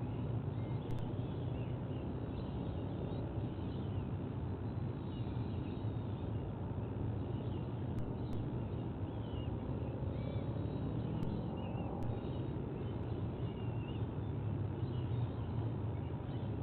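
Steady low rumble of outdoor background noise at a bird's nest, with faint, scattered small-bird chirps over it.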